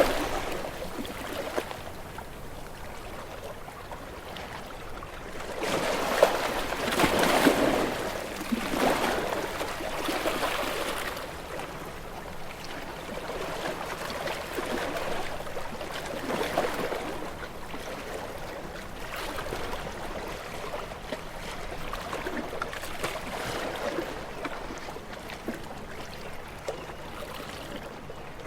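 Small, gentle sea waves washing onto a shore. The water noise swells and ebbs every few seconds, with the biggest surge about six to eleven seconds in and smaller ones after.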